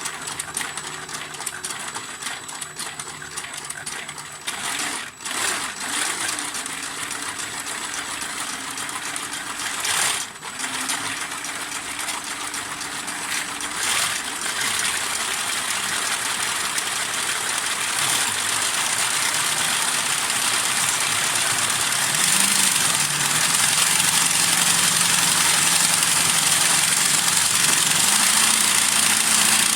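Plastic inline-four engine model kit spun by a drill, running dry without lubrication: a steady mechanical clatter over a pitched hum that steps up a few times, the whole getting louder toward the end.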